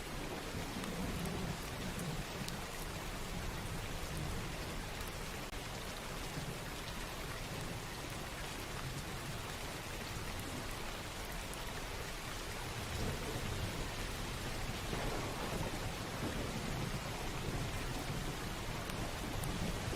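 Steady rainfall with low rolling thunder; the rumble swells a little louder about two-thirds of the way through.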